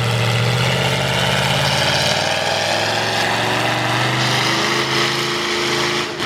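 V8 engine of a Ford mud truck running through open upright headers, held at steady revs, its pitch creeping slightly up through the middle and easing off near the end.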